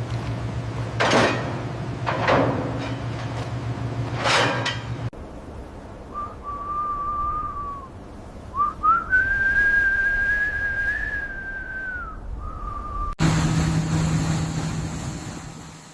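A steady low hum with three brief rushing sweeps, then a high, pure whistle that holds one note, rises to a higher held note and drops back. Near the end the whistle cuts off into another steady machine hum with a faint high whine.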